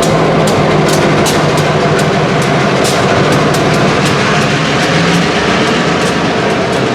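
Freight cars rolling past on the rails, wheels clicking over rail joints every fraction of a second above a steady rumble and low locomotive drone.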